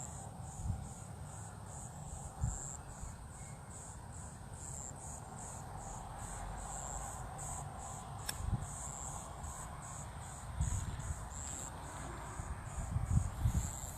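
Crickets chirping in a steady high-pitched pulse, about two to three chirps a second, with a few soft low thumps beneath.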